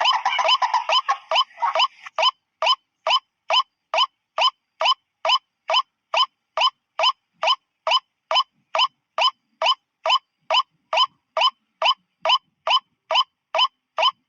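Lure recording of white-breasted waterhen (ruak-ruak) calls. A dense run of overlapping calls gives way about two seconds in to a single call note repeated at an even pace, a little over two a second.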